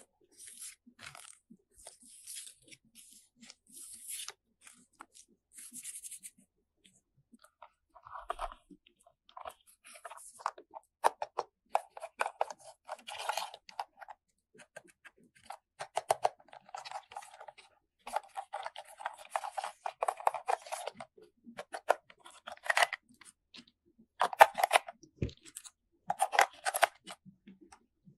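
Crinkling and tearing of plastic toy packaging, followed from about eight seconds in by a long run of sharp clicks and clatter of hard plastic toy parts being handled.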